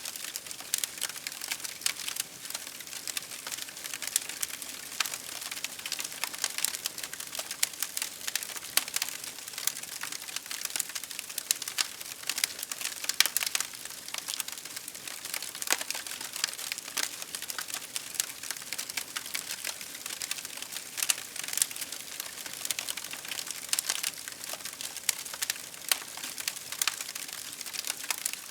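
Wood fire crackling steadily, with many small sharp pops and snaps at an irregular rate over a soft hiss.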